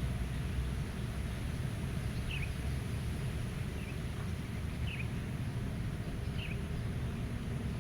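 Meadow ambience: a steady low rumble of wind, with four or five short, faint bird chirps spaced about a second apart.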